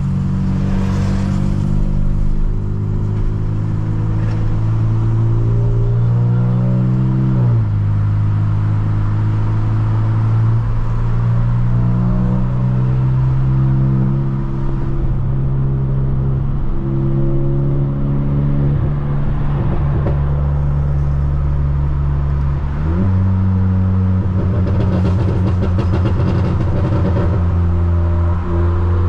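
Volkswagen Polo GTS's stage 2 tuned turbocharged four-cylinder with a sport exhaust, driven through town: the engine note climbs under acceleration, drops sharply at a gearshift about seven seconds in, holds fairly steady, then jumps back up near the end.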